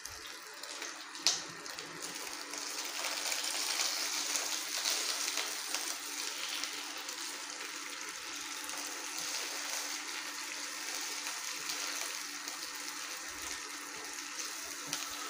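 Garlic, onion, ginger, cumin, whole tomatoes and red chillies sizzling in hot oil in a pot as they sauté and are turned with a spatula: a steady hiss, with one sharp knock about a second in.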